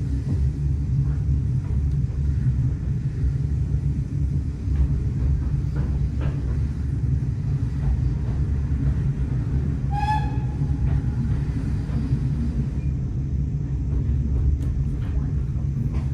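Heritage train running along the line, heard as a steady low rumble, with one short high-pitched squeal about ten seconds in.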